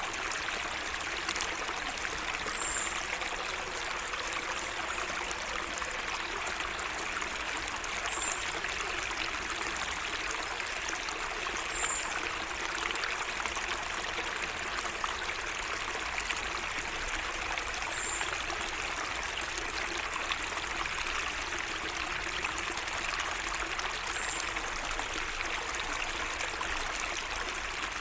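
Small garden waterway trickling steadily. A bird gives a short high chirp every few seconds, about five times.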